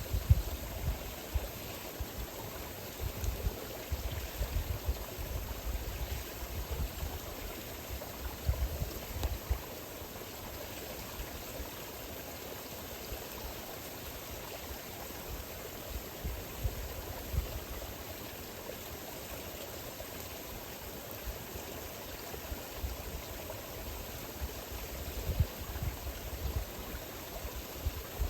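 A steady rushing hiss with wind buffeting the microphone in low gusts, heaviest in the first third and again near the end.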